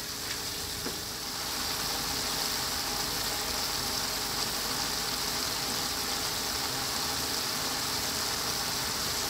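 Tuna and vegetable stir-fry sizzling steadily in a frying pan over medium heat as its liquid cooks off, with a couple of light taps from a wooden spatula near the start.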